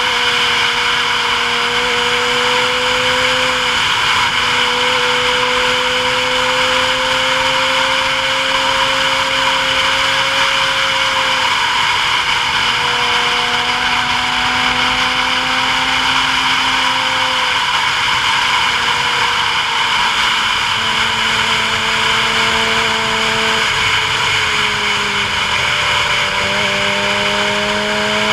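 A vehicle's engine heard from on board, with a strong steady rush of wind and road noise over it. The engine note steps up and down in pitch several times as speed and gearing change on the descent.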